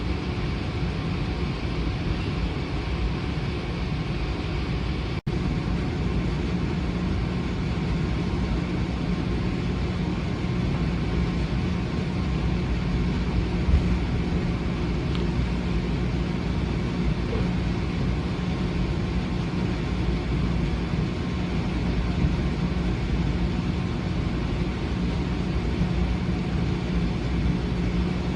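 Steady rumble of a train in motion, with a brief dropout about five seconds in.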